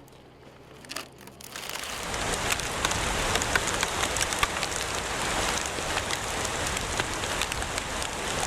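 A hailstorm pelting down: a dense clatter of many small hailstone hits over a hiss of rain. It starts about two seconds in and keeps on.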